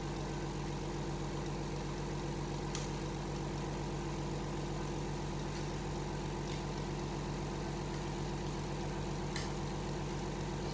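A steady low mechanical hum at one unchanging pitch, with a few faint light clicks of tools on transmission parts.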